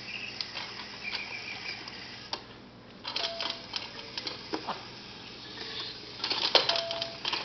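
Plastic toys on a baby bouncer's toy bar clicking and rattling irregularly as a baby bats at them, busiest about three seconds in and again near the end.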